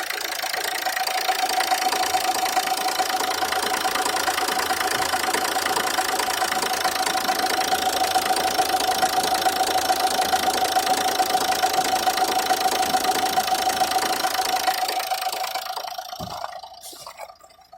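Renault Scenic II engine running with a rattly knock from a pulley and a steady whine. The sound dies away about fifteen seconds in.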